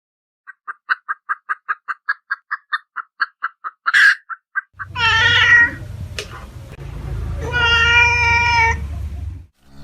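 A rapid train of short high squeaks, about five a second for four seconds, from a small animal. Then a cat meows twice: first a short call falling in pitch, then a longer, steadier one, over a low rumble.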